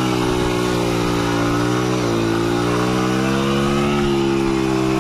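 Motorcycle engine running steadily, its pitch drifting a little up and down.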